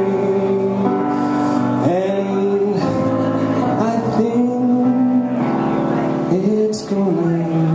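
A slow piano ballad, with a voice holding long sung notes that bend into each new pitch about every two seconds.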